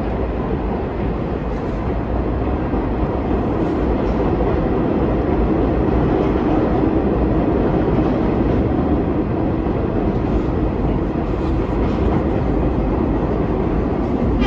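New York City subway train running along the track: a steady rumble of wheels on rails, with a few faint clicks.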